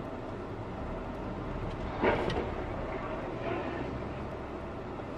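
Steady road and engine noise of a moving car, with a short loud bang about two seconds in and a smaller knock a second and a half later.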